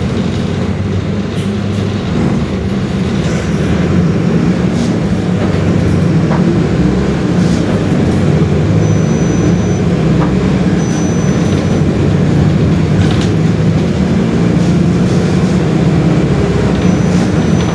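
Mercedes-Benz OF-1721 BlueTec 5 bus's diesel engine running with the bus under way: a steady low drone that grows a little louder over the first few seconds.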